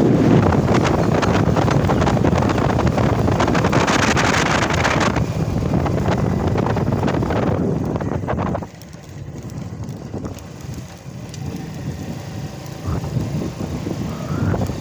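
Wind rushing over the microphone of a moving 70cc motorcycle, with the bike's running and road noise underneath. The noise drops suddenly about nine seconds in and stays quieter after.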